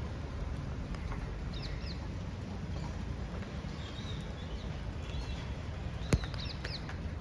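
Steady rain falling, with a few faint, short, high bird chirps and one sharp click about six seconds in.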